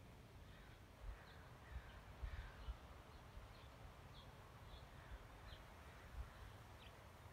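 Near silence with faint birds chirping in the background: short high chirps scattered throughout and a few falling calls in the first few seconds. A handful of brief low thumps also sound, one about a second in, a cluster a little after two seconds, and one past six seconds.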